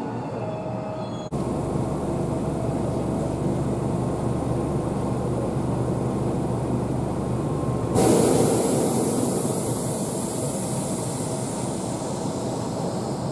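Running noise from inside the front car of a Tobu Utsunomiya Line local electric train: a steady rumble of wheels and motors. It cuts abruptly about a second in, and again at about eight seconds, where the noise turns louder and brighter.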